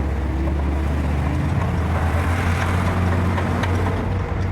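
A steady low motor drone runs throughout, with a few faint clicks over it.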